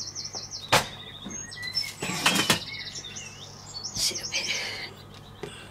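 Small songbirds singing and twittering in high, fast trills and warbles. A sharp click about a second in, and a short cluster of louder knocks around two seconds in.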